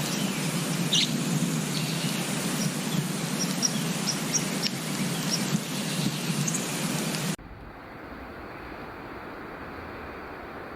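Small songbirds chirping and tweeting, short high calls scattered over a steady noisy background. About seven seconds in, the sound cuts off suddenly to a quieter, duller steady hiss.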